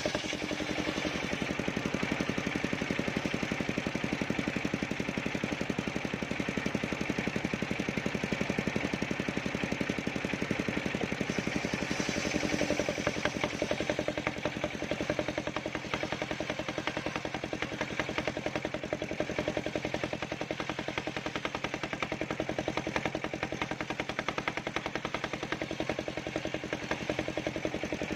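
Engine of a portable circular-saw sawmill running steadily, firing in a rapid, even train of pulses with a steady hum under it, while sengon timber is sawn.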